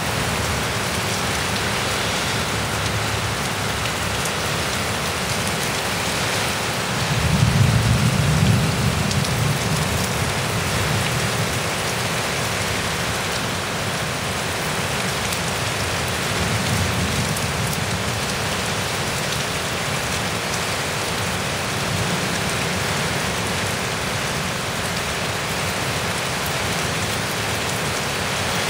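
Heavy rain pouring steadily in a severe thunderstorm. A low rumble swells about seven seconds in and again more faintly around sixteen seconds.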